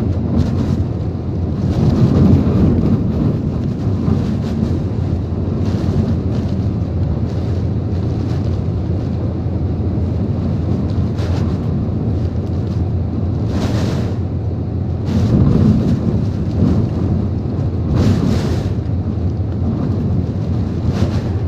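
Typhoon-force wind rushing and buffeting, with a deep rumble and wind blasting the microphone; it swells in gusts about two seconds in and again near the end, with short hissing surges of wind-driven rain.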